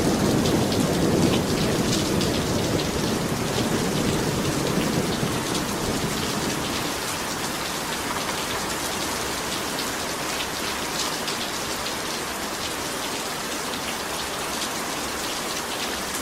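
Heavy rain pouring steadily, with a roll of thunder dying away over the first several seconds.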